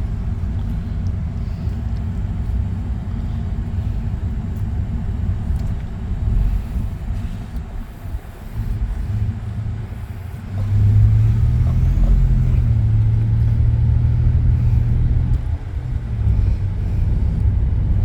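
Vehicle engine running with a low, steady rumble that gets louder about eleven seconds in, where a steady low hum comes up.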